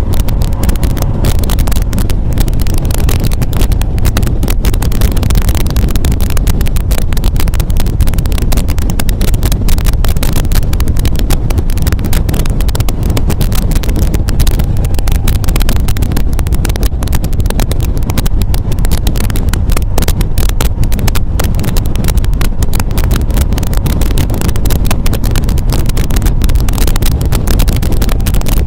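MGA sports car on the move: steady engine and road rumble under heavy wind buffeting on the microphone.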